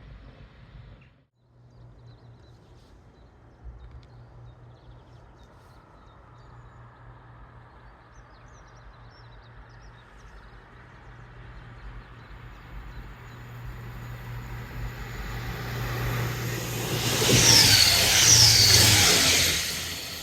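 A train on the East Coast Main Line approaching and passing, its noise building steadily to a peak near the end and then falling away. Two short high squeals come as it goes by.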